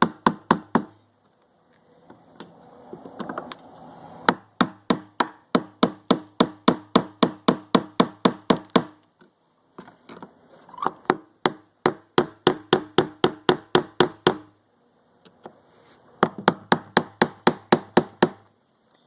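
Steady hammer taps, about three a second in three runs, driving the fuel pump module's locking ring around on a 1999 Chevy Tahoe's plastic fuel tank to tighten it. Each tap rings briefly.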